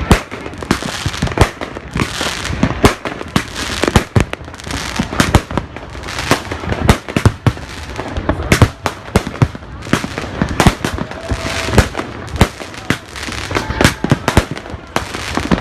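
New Year fireworks going off: many sharp bangs following one another at irregular, often rapid intervals, overlapping with no pause.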